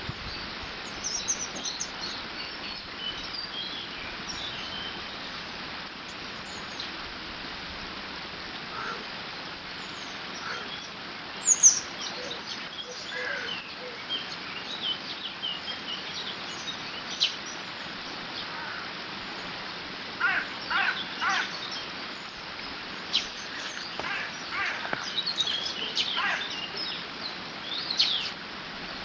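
Water flowing through a beaver dam makes a steady rushing hiss, with birds singing and calling over it throughout. A single loud, sharp rising call comes about twelve seconds in, and a quick run of harsher repeated calls comes around twenty seconds in.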